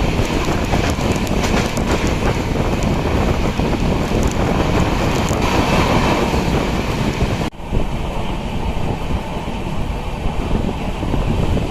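Passenger train running along the track: a steady rumble of wheels on rails with some clicking, and wind buffeting the microphone. The sound breaks off abruptly about seven and a half seconds in and resumes with more wind in it.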